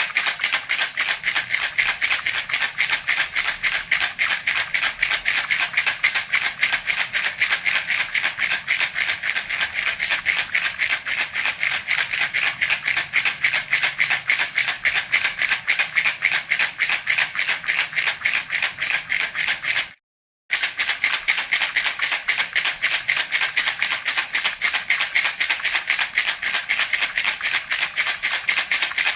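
Baby rattle (jhunjhuna) shaken in a fast, even rhythm of about six strokes a second, a bright, high rattling of beads. It breaks off for about half a second about twenty seconds in, then carries on unchanged.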